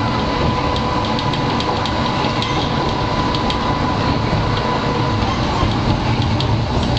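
Tatra tram at its terminus, a steady mechanical hum with a thin whine that fades out about five seconds in, and light ticking.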